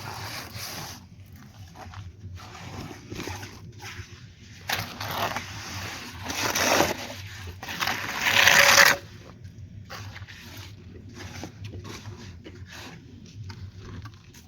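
Irregular scraping strokes of a tool working through sand-and-cement mortar, loudest for a few seconds past the middle.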